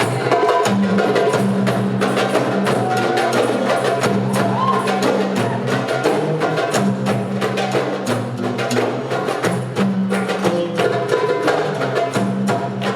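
A hand-drum ensemble with darbukas playing a fast, dense rhythm of sharp strokes over backing music with a low held bass line.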